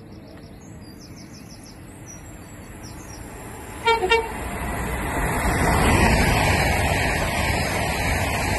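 An approaching express train sounds two short horn toots about four seconds in, then passes through the station at speed, its rushing wheel and air noise swelling and staying loud to the end.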